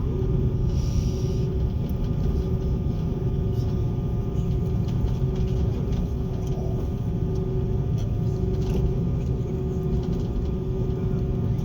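Airliner cabin noise before takeoff: a steady low rumble with a few constant whining tones above it.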